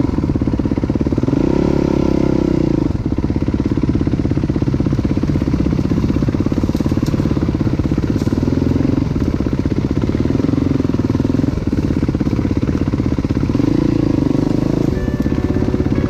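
Dirt bike engine heard from on board, chugging at low revs, with four short bursts of throttle that raise its pitch: the longest begins about a second in, the others fall near the middle and towards the end.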